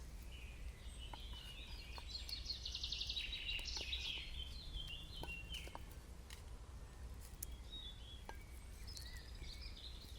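A bird singing in the forest: a rapid trill about two seconds in, then a run of notes stepping down in pitch, and another short phrase near the end. Scattered faint clicks and a steady low rumble lie underneath.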